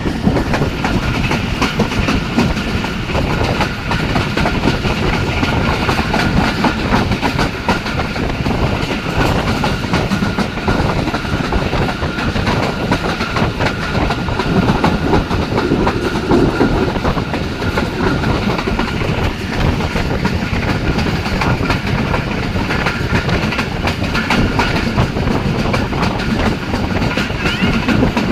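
Jaffar Express passenger train running at speed: a steady rumble with the clatter of wheels over the rails and a faint steady whine from the wheels.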